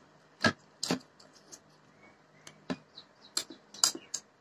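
Close-miked eating sounds: wet lip-smacks and chewing clicks as rice is eaten by hand, a series of short sharp smacks spaced irregularly, the loudest about half a second in and again near the end.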